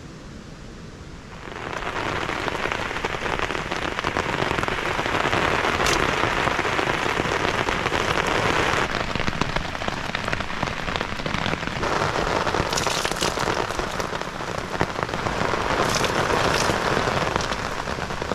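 Heavy rain hitting a tarp shelter, coming in suddenly about a second and a half in and then running on in dense waves that swell and ease, with sharper individual drop hits here and there.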